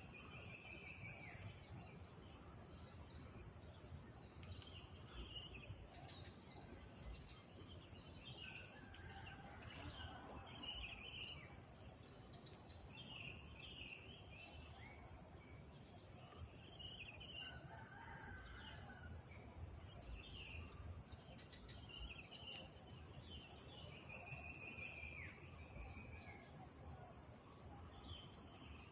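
Faint village morning ambience: small birds chirping again and again over a steady high-pitched insect drone.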